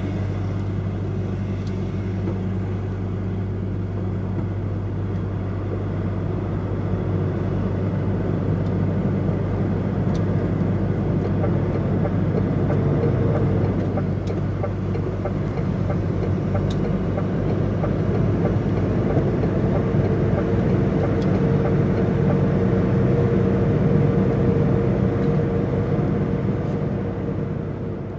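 DAF XF105.460 truck's diesel engine running, with road rumble heard from inside the cab; the drone grows a little louder over the first part as the truck gets going. A faint steady whine joins in for the last third.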